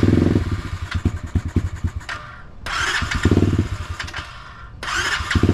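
SSR 125 automatic dirt bike's single-cylinder four-stroke engine being electric-started three times in a row. Each time the starter whirs and the engine fires in quick pops for a second or two, then drops back without staying running.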